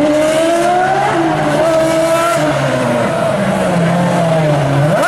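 Ferrari Formula One car engine running at high revs, its note rising and falling as the throttle is worked, then sinking lower toward the end.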